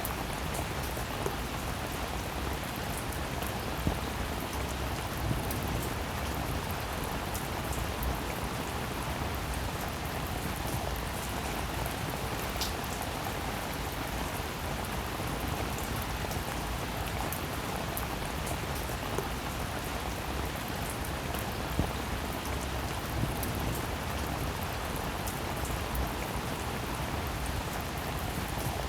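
Steady rainfall: a continuous even hiss with individual drops tapping here and there.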